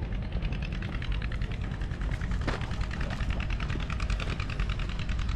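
A motor running steadily, a low rumble with a fast, even ticking.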